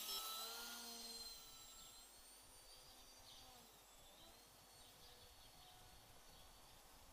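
FPV quadcopter's electric motors whining, loudest at the start and fading within about a second and a half. The pitch keeps gliding up and down faintly afterwards as the drone flies farther off.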